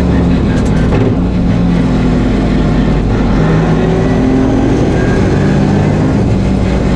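A Nissan 350Z rally car's V6 engine pulling hard, heard from inside the cabin. Its pitch rises and drops several times as the revs change through shifts and corners, over steady road and tyre noise.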